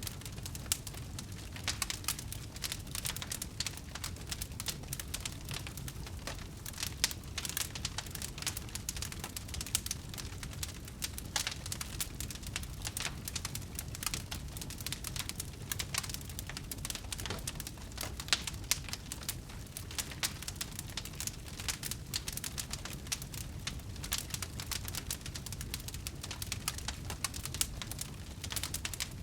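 Wood fire burning, crackling with a dense, irregular stream of small pops and snaps over a steady low rumble.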